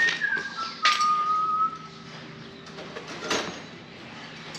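A person whistling a few held notes that step down in pitch over the first couple of seconds, then stops. Two sharp clicks sound, one about a second in and one past the three-second mark.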